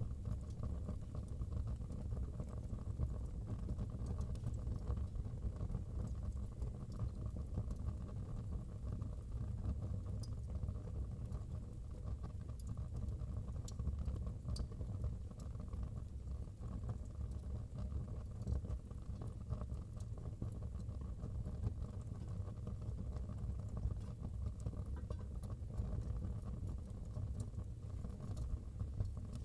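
Wood fire burning in a fireplace: a steady low rumble of flames with sparse small crackles and pops.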